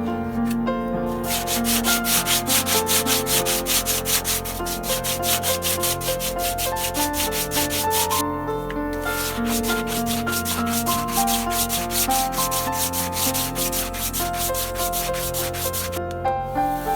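Fast, even back-and-forth abrasive strokes by hand, such as sanding or scraping a surface. They run in two long spells with a short break about eight seconds in and stop about a second before the end, over soft piano background music.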